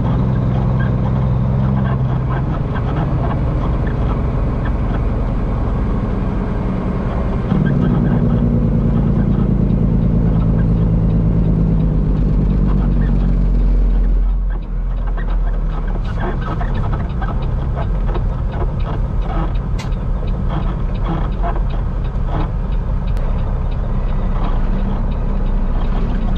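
Peterbilt semi truck's diesel engine droning from inside the cab while driving. It gets louder about a third of the way in, dips sharply as the throttle comes off about halfway through, then runs lower with scattered clicks and rattles.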